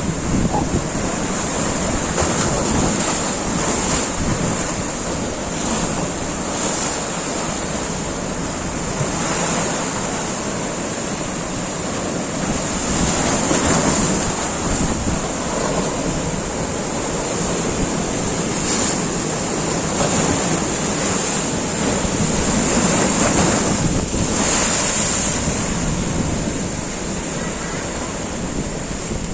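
Surf breaking on a beach: a steady rush of waves that swells and eases, with wind buffeting the microphone.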